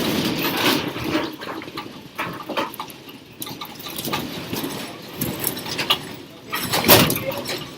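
Rattling and clattering of a room shaking in an earthquake, over a steady noisy rumble, with a loud crash about seven seconds in.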